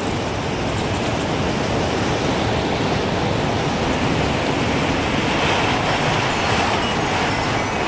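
Strong gusting wind rushing steadily, swelling a little in the second half. Faint high tinkles of a wind chime start a few seconds before the end.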